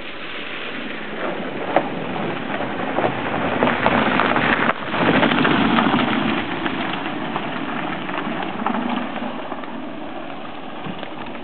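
A motor vehicle passing on the road, its engine and tyres growing louder to a peak about five seconds in, then easing off.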